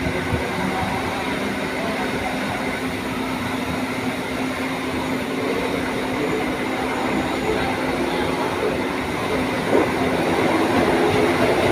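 Mumbai suburban local train running, heard from inside the coach: a steady rumble with a constant electric hum, a short knock about ten seconds in, after which the noise grows a little louder.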